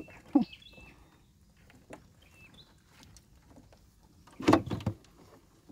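A small bird chirps a few times with short stepped calls, alongside light clicks and knocks from handling in the bottom of a plastic boat. A brief, louder sound comes about four and a half seconds in.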